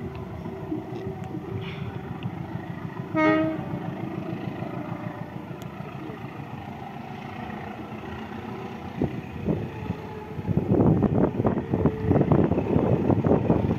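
Train approaching and passing: a short horn blast about three seconds in over a steady engine rumble, then from about ten seconds a much louder clattering rumble as the train goes by close.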